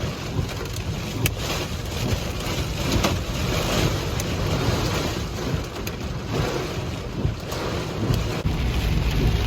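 Heavy storm rain and gusting wind with a steady low rumble, and a few sharp taps scattered through it.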